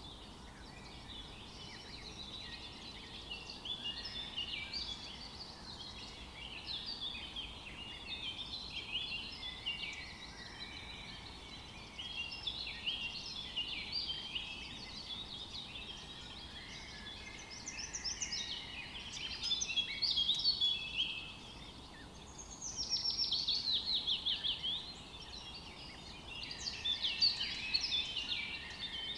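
Forest birdsong: several birds singing at once in a dense, overlapping chorus of chirps and trills. About three-quarters of the way through, one bird sings a louder trill of rapid falling notes.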